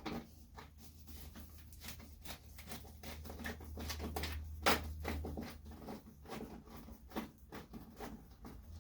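Light clicks, taps and knocks of small parts and hand tools being worked loose from a car's front trim, with one sharper knock about halfway through. A steady low hum runs underneath.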